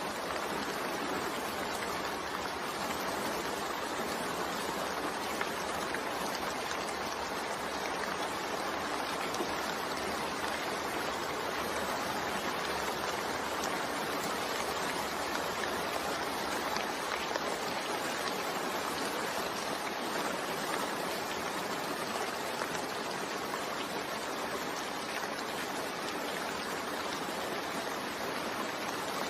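Steady rainfall, an even hiss of drops without change.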